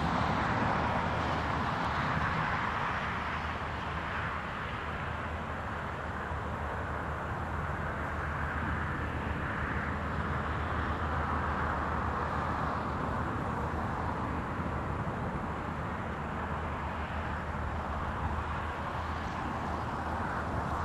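A long train hauled by two M62 diesel locomotives passing along a distant embankment: a steady rumble of wheels on the rails, slightly louder in the first few seconds, over a low steady drone.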